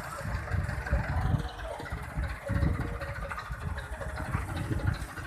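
Tractor engine running with an uneven low rumble.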